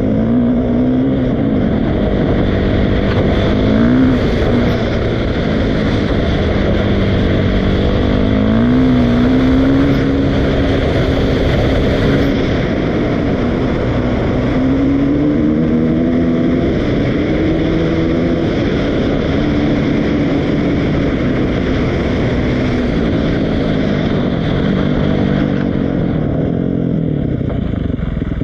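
Dirt bike engine running under load, its pitch rising and falling again and again as the throttle is opened and closed.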